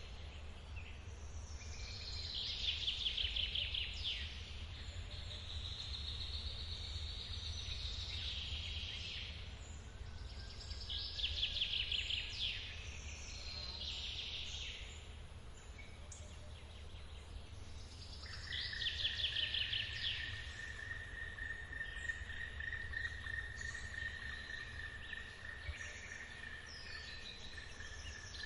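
Forest birdsong: a trilling song comes back about every eight seconds over a steady low rumble of water. About two-thirds of the way through, an insect's steady high buzz joins in.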